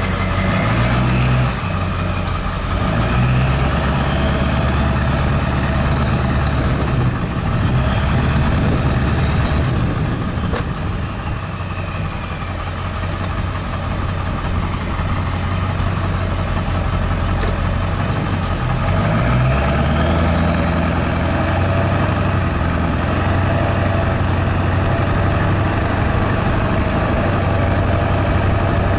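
Straight-piped 7.3-litre Power Stroke turbo-diesel V8 running loud, its engine speed rising and falling several times. A high whistle climbs with the engine speed about two-thirds of the way through.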